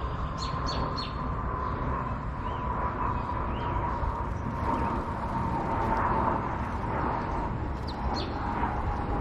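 Small songbirds chirping: three quick chirps in a row near the start, a couple of softer notes in the middle and two more near the end, over a steady low background rumble with a faint steady hum.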